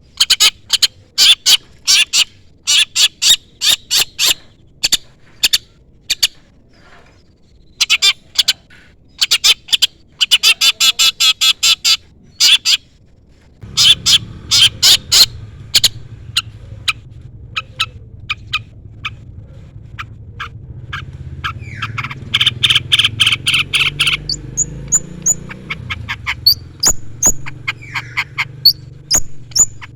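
Long-tailed shrike (cendet) calling: runs of sharp, rapid chattering notes broken by short pauses, the kind of challenge calls used to provoke a rival shrike into answering. About halfway through, a steady low hum comes in underneath, and near the end a few thin high whistled notes join the calls.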